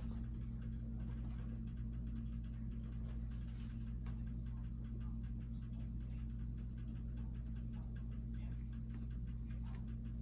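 Casablanca Victorian five-blade ceiling fan running: a steady motor hum under a rapid, uneven light clicking.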